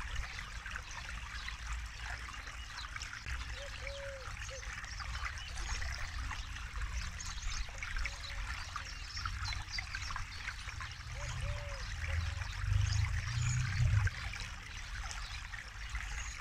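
Forest river flowing over stones: a steady trickling, babbling wash of water with a low rumble beneath it, which swells for a couple of seconds near the end.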